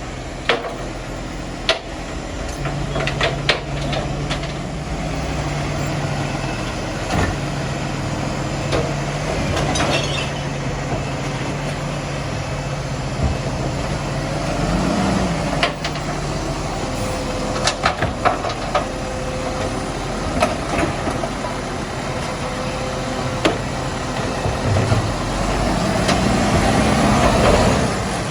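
Garbage truck engine running at idle, with sharp knocks and clanks now and then, and the engine note rising over the last few seconds.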